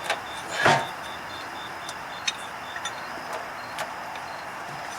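A short rustle of movement, then a few light, scattered clicks and taps of hand tools and bolts being handled during work under a truck.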